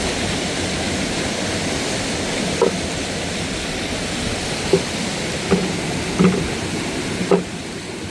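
Steady rush of falling water from a mountain waterfall or stream. About five short, dull knocks sound over it in the second half.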